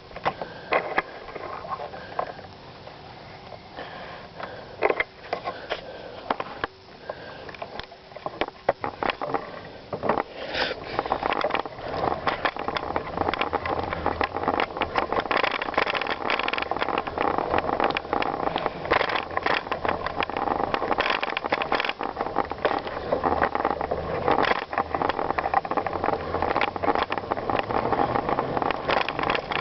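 Bicycle ridden over a rough trail: a steady noisy rush of tyres on the ground mixed with many quick knocks and rattles from the bike. It gets louder and busier about ten seconds in.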